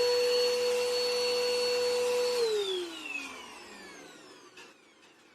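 Bissell vacuum cleaner running with a steady high whine, then switched off about two and a half seconds in, its motor spinning down with a falling pitch as it fades.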